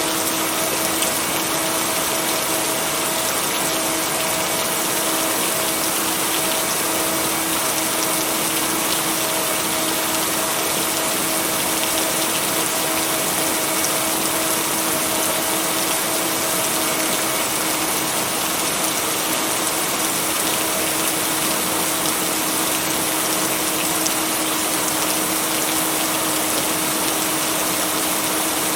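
Steady rain, an even hiss with no breaks or claps of thunder, with a constant low tone running underneath from mixed-in binaural beats.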